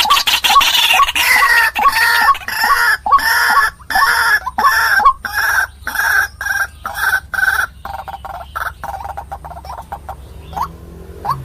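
White-breasted waterhen calling: a loud, rapid series of harsh repeated notes, about two or three a second, that dies away after about eight seconds.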